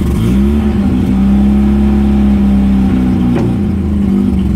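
1984 Mazda RX-7's rotary engine catching on a cold start with a non-working choke. Its pitch rises quickly as it fires, it runs steadily at speed, and then it stops at the very end.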